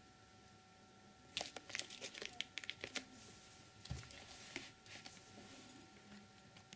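Faint crinkling, rustling and light taps of a boxed firework cake and its wrapping being handled, in two short clusters, the first starting about a second and a half in.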